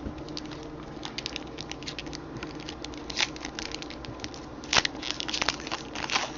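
Quick, light clicks and crinkles of small handling noises in clusters, busiest about five seconds in, over a faint steady hum.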